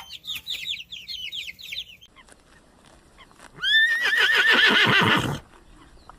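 Chickens calling in quick high notes for about two seconds, then, after a short lull, a horse gives one loud whinny about a second and a half long that rises sharply at the start, then wavers and drops.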